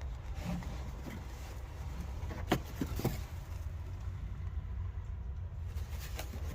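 Items being handled in a car trunk: two sharp clicks about two and a half and three seconds in, over a steady low rumble.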